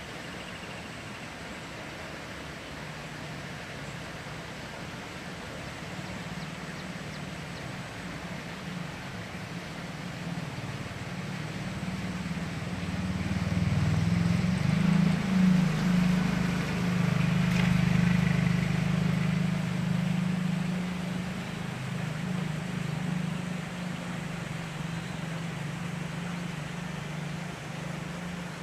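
A low engine drone that builds slowly, is loudest about halfway through, then fades gradually without stopping, like a motor passing at a distance.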